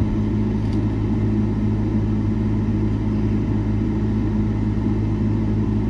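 Steady low engine drone of a vehicle idling, even and unchanging.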